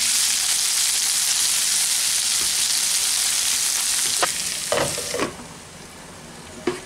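Sliced potatoes and onions sizzling in hot oil in a non-stick frying pan while being stirred with a spatula. About five seconds in there are a few knocks as a glass lid goes on, and the sizzle drops to a much quieter hiss.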